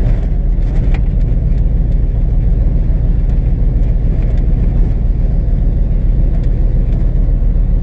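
Vehicle engine running with a steady low rumble, most likely the tow truck's.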